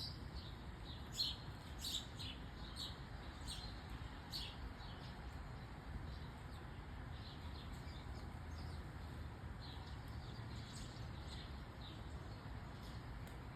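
Small birds chirping in short, high calls, many in the first few seconds and then more scattered, over a steady low background rumble.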